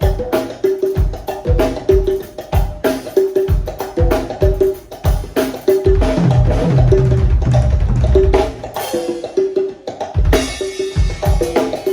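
Congas played in a steady, fast rhythmic pattern of pitched slaps and open tones, over regular deep bass-drum beats. About halfway through, a dense low rolling rumble takes over for a couple of seconds before the pattern resumes.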